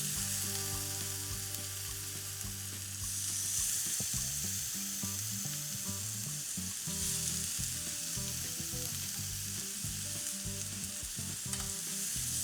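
Dry-rubbed chicken thigh pieces sizzling as they fry in a non-stick frying pan on medium heat. The sizzle swells about three seconds in and again around seven seconds.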